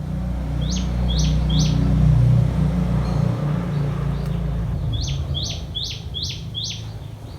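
Common tailorbird calling in short, sharp, descending notes: three quick ones about a second in, then a run of five near the end. Underneath is a low rumble, loudest about two seconds in.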